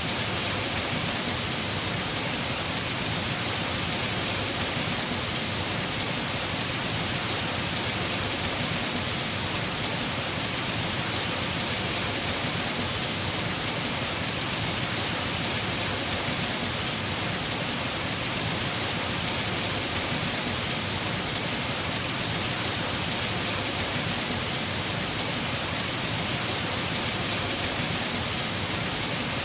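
Heavy rain falling steadily on a house roof, an even continuous hiss of drops with no breaks or thunder claps.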